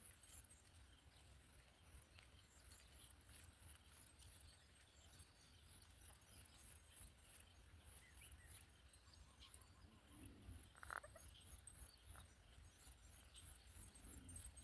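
Near silence: a faint low rumble with a few soft ticks, and one brief sound about eleven seconds in.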